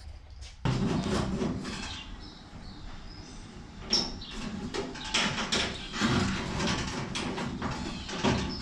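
Sheet-metal car body panels being handled and worked into place, with irregular scraping and clatter and a few sharp metallic knocks.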